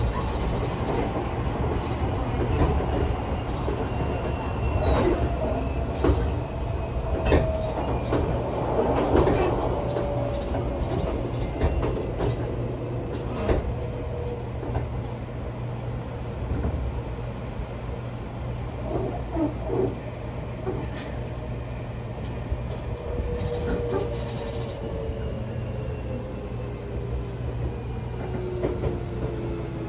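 Interior running sound of a Seibu 40000 series electric train: a steady low rumble of wheels on rail with scattered clicks and knocks, and a faint motor whine that slowly falls in pitch.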